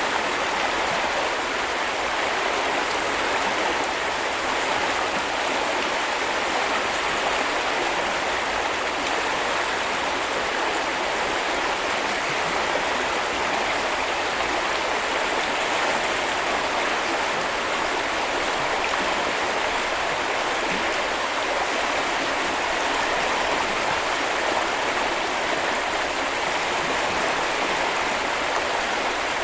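River water flowing and splashing in a steady, even rush.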